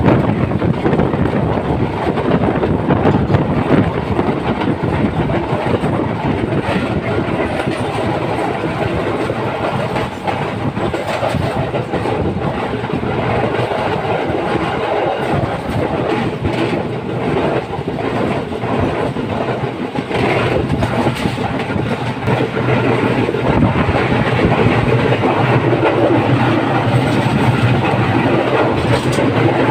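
Passenger train running at speed, its wheels clattering over the rail joints above a steady rumble, heard from on board; it gets a little louder near the end.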